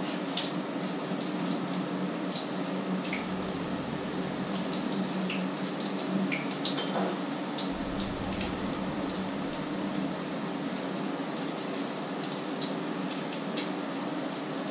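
Food frying in pans, meat and eggs, a steady sizzle dotted with many small pops and crackles, over a faint steady low hum.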